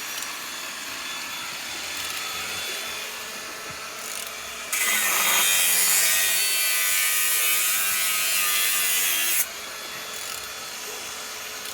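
Used engine being turned over on its crankshaft with a tool: a steady rubbing, scraping noise, much louder and hissing for about five seconds in the middle. The engine turns freely.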